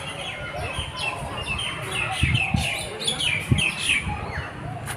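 Many birds chirping and calling at once, a dense mix of short overlapping chirps and quick falling notes.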